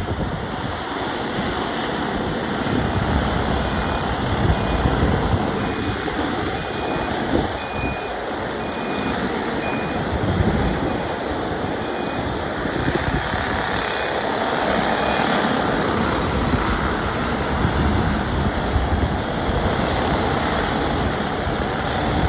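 Wheel loader engine running under load, with its reversing alarm beeping about twice a second through the first half.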